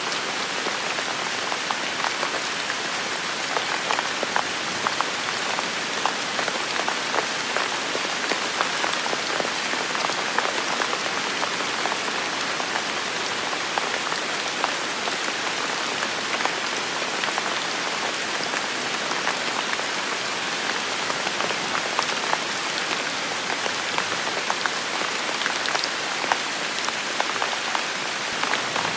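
Heavy rain falling steadily, a dense even hiss with many distinct drops pattering close by.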